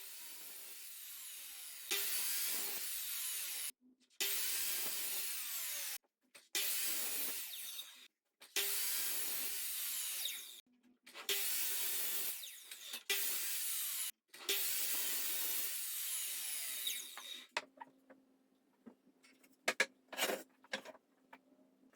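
Power tool working wood in repeated runs of two to three seconds, each stopping abruptly. Near the end come a few sharp clicks over a faint steady hum.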